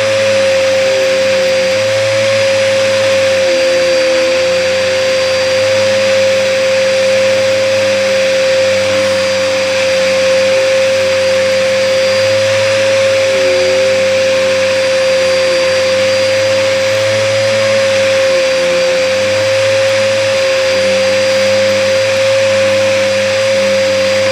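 Hoover upright vacuum cleaner running steadily, with a strong constant motor whine over the rush of air. The vacuum is clogged.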